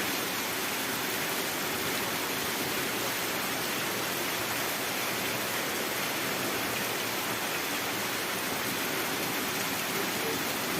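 Steady rushing of water after rain: an even hiss with no breaks or changes.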